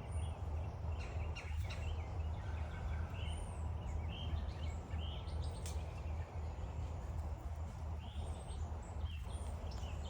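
A flock of birds calling from the trees, with many short chirps and calls scattered throughout, over a steady low rumble.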